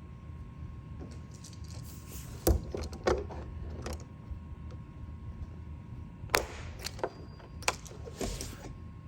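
A series of sharp clicks and knocks, about half a dozen spread irregularly, from hand tools being handled and set down during glue-pull dent repair, over a steady low hum.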